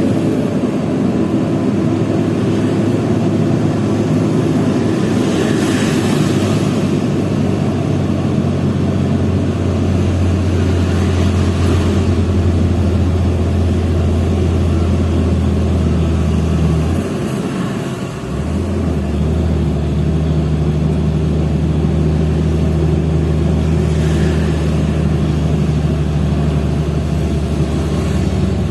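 Hino FL 260 JT truck's diesel engine pulling steadily under a heavy load. About 17 seconds in the engine note briefly drops away and comes back lower, as at a gear change.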